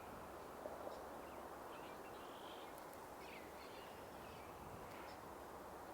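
Faint, scattered songbird calls, short chirps with one brief steady whistled note, over a steady low outdoor background hiss.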